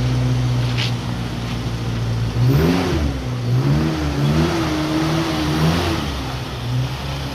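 Restored 1950 Austin's engine idling steadily, then revved several times in the middle before settling back to idle.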